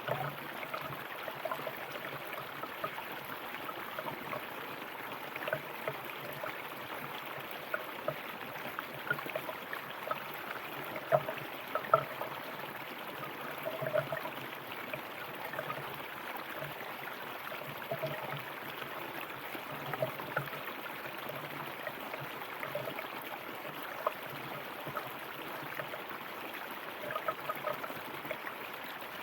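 River or stream water flowing and gurgling steadily over rocks, with small splashes and burbles throughout and a couple of slightly louder splashes near the middle.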